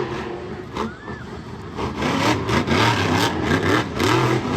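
Monster truck engine revving hard in repeated throttle bursts, its pitch rising and falling.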